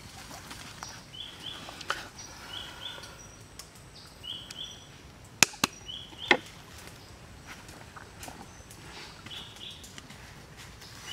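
A bird calling repeatedly in pairs of short high notes, every second or two, over outdoor ambience. Three sharp knocks in the middle are the loudest sounds: two close together about five and a half seconds in, and a third just after six seconds.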